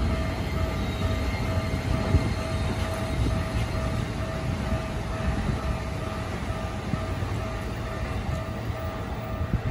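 Keikyu 1000-series electric train pulling in and slowing to a stop: a low rumble of wheels and motors that gradually eases, with a faint steady high whine throughout.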